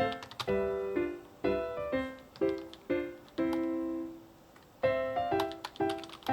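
Background piano music: single notes and chords struck about twice a second, each fading out, with one note held longer just past the middle.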